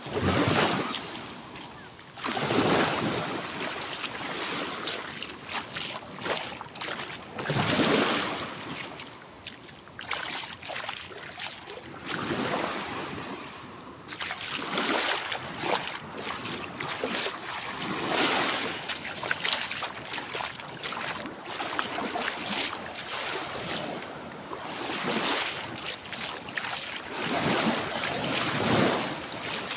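Sea waves breaking and washing up a beach, the noise swelling and dying away in surges every few seconds.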